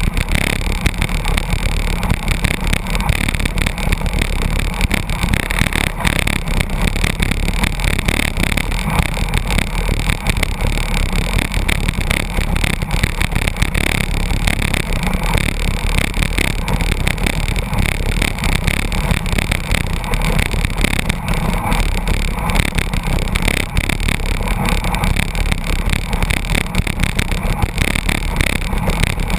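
Steady, loud rush of wind and road noise from a road bicycle riding at about 82 km/h close behind a truck, drafting in its slipstream.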